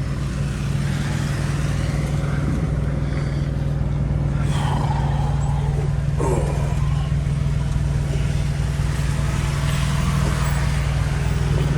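Cummins X15 diesel engine of a Peterbilt 389 truck running steadily with an even low hum.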